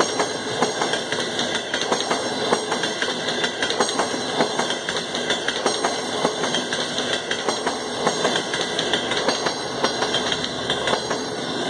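Passenger coaches of a diesel-hauled train rolling past close by, their wheels clicking and knocking over the rail joints in a quick, irregular run over a steady rumble.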